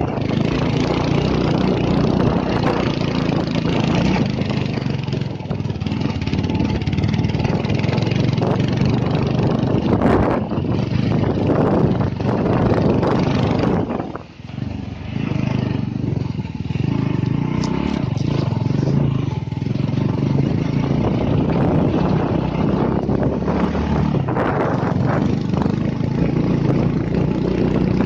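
Motorcycle running on a rough road: steady engine sound under loud, continuous road and wind noise, with a brief drop in level about halfway through.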